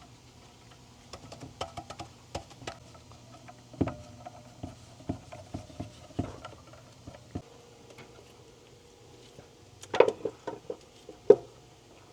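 Light clicks, taps and clinks of small metal and rubber engine parts being handled, with two louder metallic clanks that ring briefly near the end.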